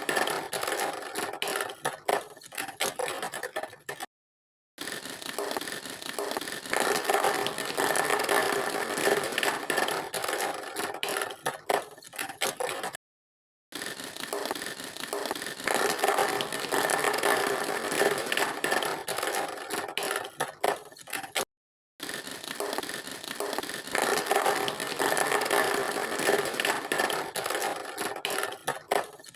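Plastic toy vehicles scraping and rattling as they are played with, in three cut-together stretches.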